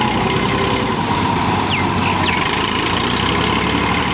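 Tractor engine running steadily at a constant level.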